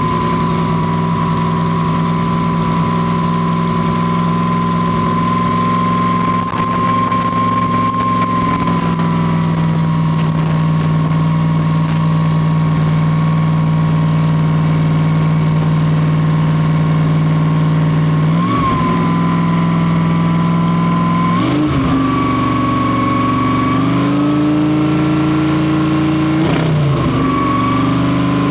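Motorized shopping cart's 454 Chevy big-block V8 running steadily as the cart drives along, sounding healthy. In the last ten seconds the engine note dips and rises again three times as the speed changes.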